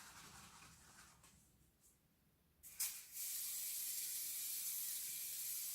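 Aerosol can of foaming glass cleaner spraying onto fireplace glass: a short click, then a steady hiss from about three seconds in.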